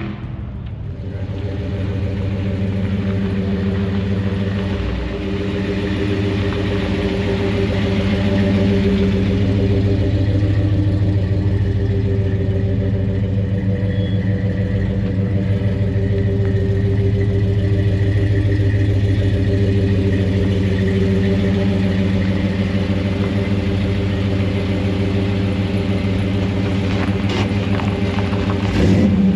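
Truck engine running steadily at a constant low speed, an even drone that holds without change.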